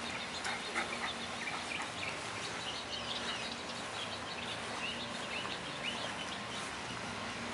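Small birds chirping, many short quick chirps scattered throughout, over a low steady hum.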